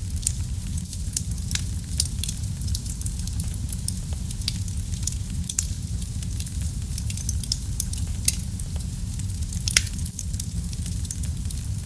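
Wood fire in a fireplace crackling, with frequent sharp pops and snaps over a low, steady rumble of burning. A couple of louder pops come near the end.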